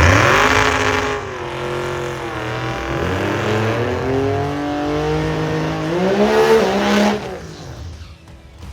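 Drag racing car launching hard off the line and accelerating away down the strip, the engine climbing in pitch and dropping back at each gear change, fading out about seven seconds in.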